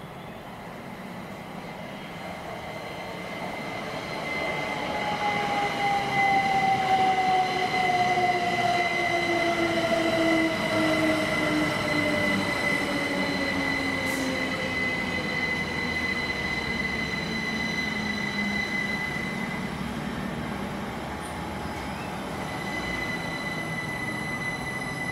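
Train passing through the station, loudest about a quarter of the way in and then slowly fading. A whine falls steadily in pitch through the first half, over a steady high squeal.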